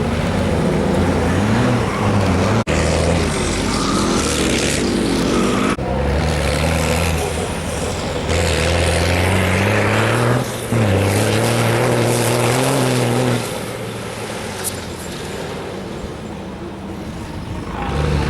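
Truck engine revving hard under load, its pitch rising and falling several times as it climbs and eases off. The sound drops out for an instant about three seconds in, and the engine runs quieter for the last few seconds.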